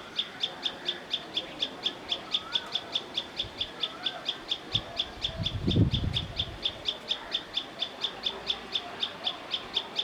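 A bird chirping in a fast, even series of high notes, about five a second, over softer whistled calls from other birds every couple of seconds. A short low rumble comes a little past the middle.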